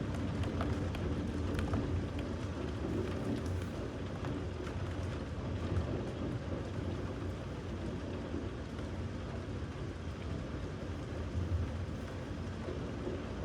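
Steady rain with a continuous low rumble underneath and a few faint drop ticks in the first couple of seconds.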